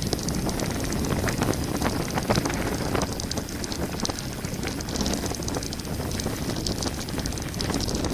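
Mountain bike running fast down a gravel forest road: a steady rush of tyres on loose stones, with many small clicks and rattles from the bike.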